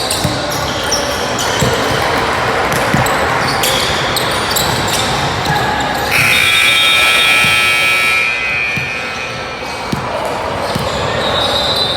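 Basketball bouncing on a gym floor in repeated thuds over a steady murmur of court and crowd noise. In the middle a sustained high tone holds for about three seconds.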